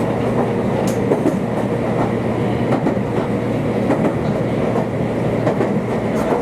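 Meitetsu limited express train running along the line, heard from on board: a steady rumble with a low hum, and wheels clicking over the rail joints now and then.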